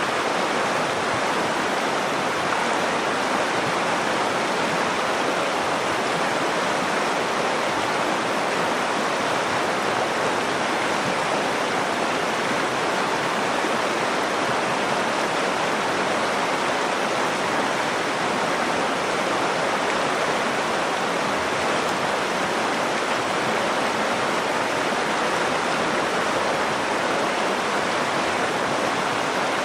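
River water flowing and rushing over stones, a steady, unbroken rush.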